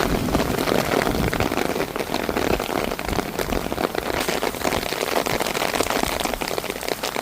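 Heavy monsoon rain coming down hard: a steady, dense hiss of drops.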